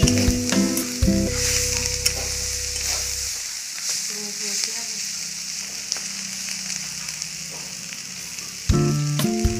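Potato sticks and neem leaves sizzling as they fry in oil in a metal kadai, with a spatula stirring and scraping against the pan. Background music plays at first, drops out after about three seconds and comes back near the end.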